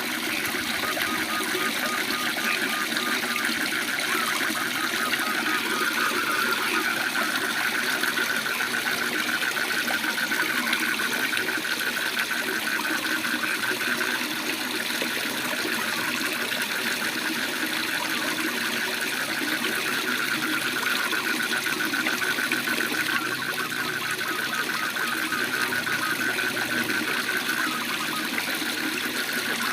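Waterfall's steady rush of water with a chorus of frogs trilling in rapid, even pulses throughout; a separate short pulsed call sounds in the first few seconds.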